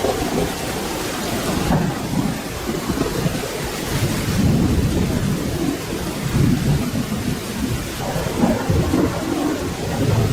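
Steady rain with thunder rumbling low underneath. The rumble swells a little before the middle and again near the end.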